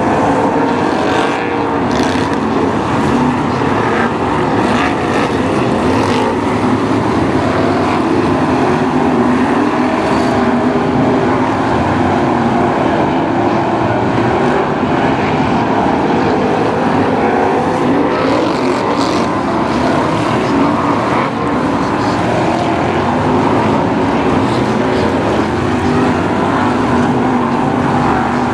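A pack of BriscaF1 stock cars racing, their V8 engines running together as one loud, steady drone, with a few short sharp knocks over it.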